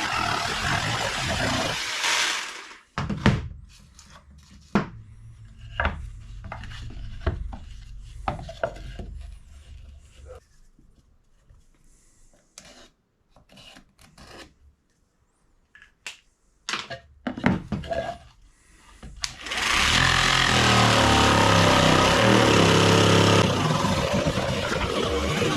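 Workshop tool work: a power tool runs for about two seconds and stops, then come scattered knocks and taps of metal parts being handled and fitted. Near the end a power tool starts again and runs steadily with a low hum.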